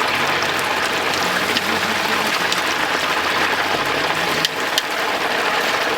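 Chicken deep-frying in a vat of oil, a steady sizzle, with a couple of sharp clicks near the end.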